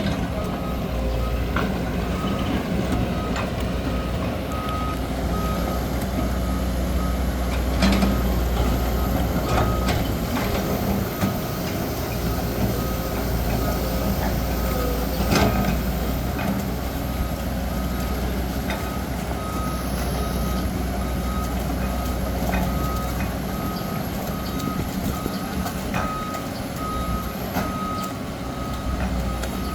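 A heavy machine's reversing alarm beeping steadily over the low rumble of a running heavy diesel engine, with a couple of sharp knocks, about 8 and 15 seconds in.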